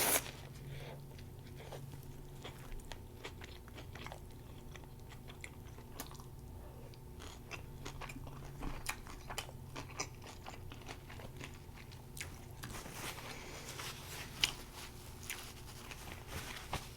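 Close-miked chewing of a mouthful of homemade plant-based Impossible burger, with small crunches and wet mouth clicks over a low steady hum.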